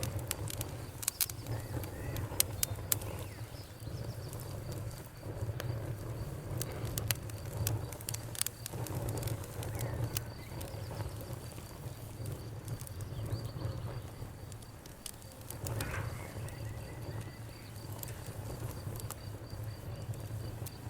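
Wood fire crackling: sharp, irregular pops and snaps over a steady low rumble of burning.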